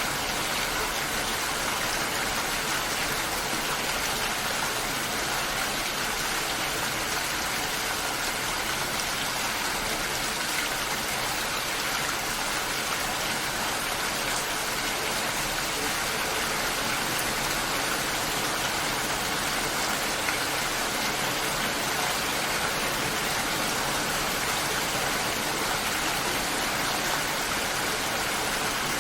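Steady, heavy rain falling in an even hiss, with no distinct drops or rumbles standing out.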